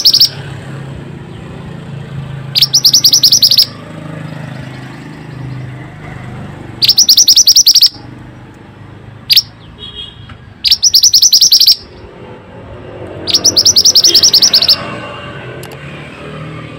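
Mantenan (minivet) song: loud bursts of a rapid, high trill, each about a second long, repeated about five times with pauses of a couple of seconds between them.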